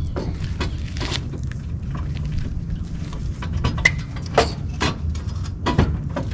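Irregular knocks and clanks of tools and parts as an exhaust header is worked loose during an engine pull, over a steady low hum.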